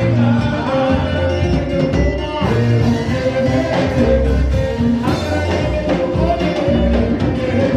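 Live worship band playing an upbeat song, with pulsing bass notes and drums under guitar and possibly voices.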